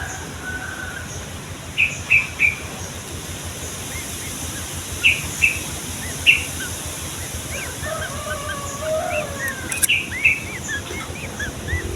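Yellow-vented bulbul (trucukan) singing: short loud bubbling notes in clusters of two or three, then a run of quick arched chirps in the last few seconds, over a steady background hiss.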